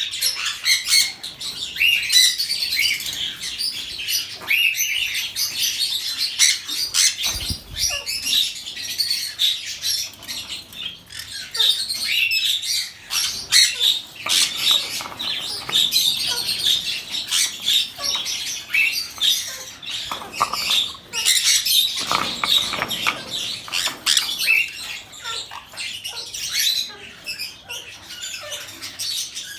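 Sun conure parrot giving rapid, shrill high-pitched squawks and chirps in quick succession. A brief low bump comes about seven and a half seconds in.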